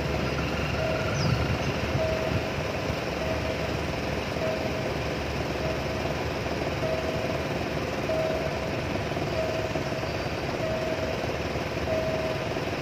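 Passenger train carriages rolling past with a steady rumble, while the level-crossing warning signal sounds a short tone about once every second and a quarter.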